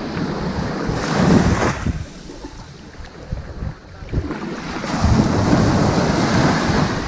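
Ocean waves breaking and washing up onto a sandy beach, two surges about four seconds apart with a quieter lull between, and a low rumble from wind on the microphone.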